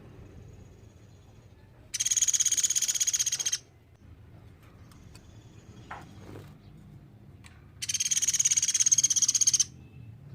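Platuk beras, a small woodpecker, giving a loud, very fast high-pitched trilled call twice, each burst lasting under two seconds, with fainter trills between them.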